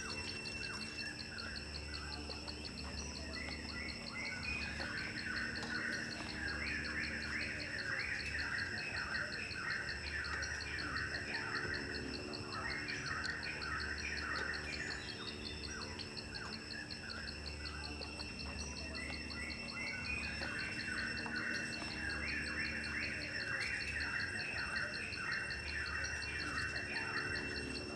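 Insects trilling steadily with a fast high pulse, while birds chirp in busy bouts lasting a few seconds each, several times over.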